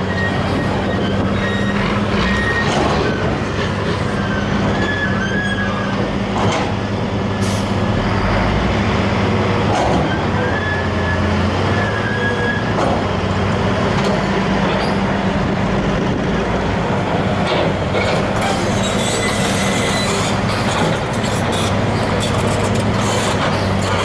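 Heavy dump trucks' diesel engines running steadily with a deep hum, with a few brief high squeals now and then.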